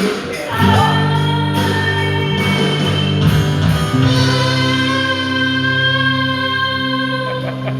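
Live pop band music with guitar: long held notes and chords ring on, like the close of a song.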